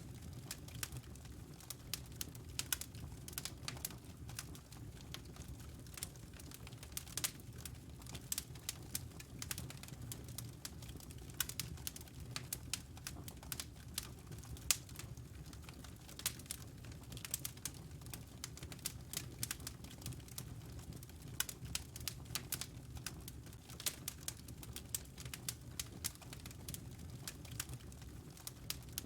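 Wood fire crackling in a fireplace: many irregular sharp pops and snaps, some louder than others, over a low steady rumble.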